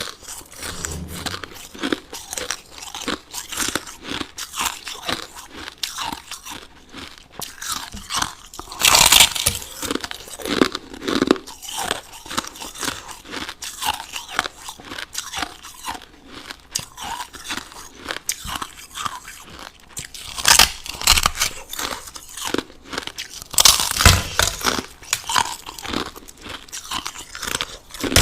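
Close-miked crushed ice being bitten and chewed: a continuous run of irregular crunches and crackles, with a few louder bites, at about 9, 20 and 24 seconds in.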